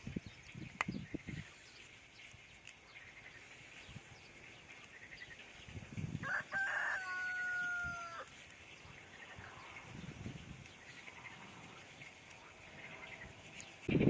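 A rooster crowing once, a single call of about two seconds a little past the middle, its held note falling slightly at the end. A few soft low knocks come before and after it.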